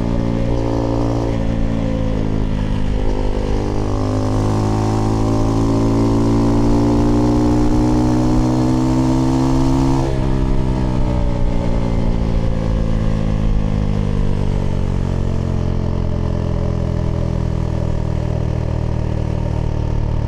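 Husqvarna Svartpilen 401's single-cylinder engine through an IxRace Mk.2 aftermarket exhaust with a modified dB killer, pulling with a steadily rising pitch for several seconds. About halfway through the pitch drops suddenly, then winds down slowly as the bike slows.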